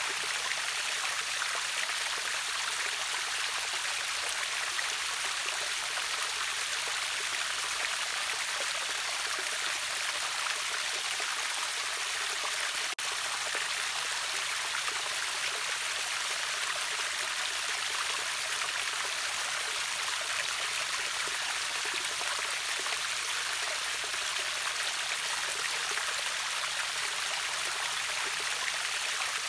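River waterfall's water rushing and splashing in a steady, unbroken hiss, mostly high-pitched with little low rumble.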